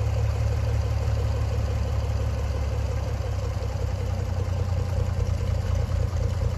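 Tractor engine idling steadily, a low, even running sound.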